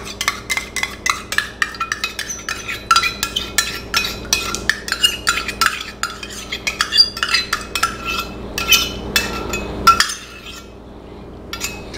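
Spoon scraping and tapping inside a stainless-steel measuring cup to get thick hoisin sauce out into a glass mixing bowl: a quick, uneven run of metallic clinks and scrapes that stops about ten seconds in.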